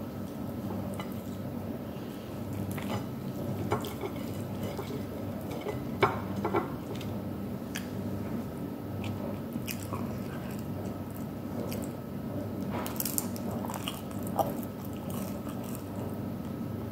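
Close-up sounds of a person eating grilled chicken wings by hand: chewing and biting with wet mouth noises and scattered small clicks, over a steady background hum.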